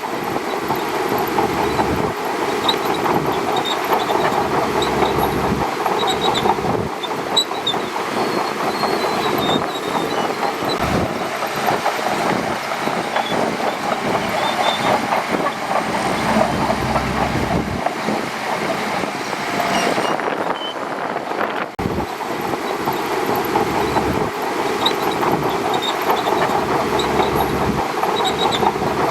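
Shantui DH17C2 crawler bulldozer running, its engine steady under the clanking and squeaking of its steel tracks, with a brief break about three-quarters of the way through.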